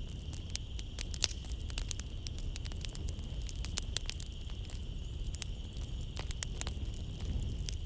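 Wood fire crackling in a fireplace: frequent sharp pops and snaps of burning logs over a low steady rumble of the flames. A steady high-pitched trill of night insects runs underneath.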